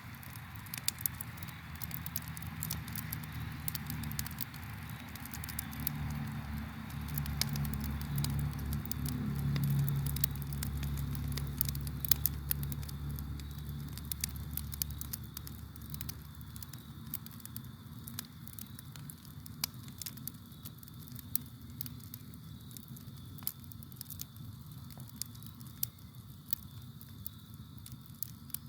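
Campfire crackling, with frequent sharp pops and snaps throughout. A low rumble swells in the first half and fades away about halfway through. Crickets chirp faintly and steadily in the background.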